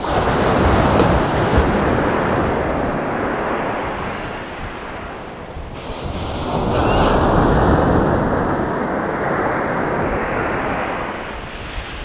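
Sea waves breaking and washing up on a winter beach: two surges of surf, the first about a second in and the second around seven seconds, with a lull between.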